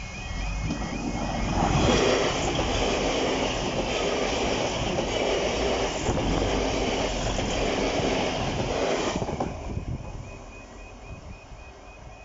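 A train passing over a level crossing: a loud rush of wheel and rail noise builds in the first couple of seconds, holds for about seven seconds, then dies away. The crossing's warbling two-tone warning alarm is heard at the start, is drowned out while the train passes, and comes back as the train recedes.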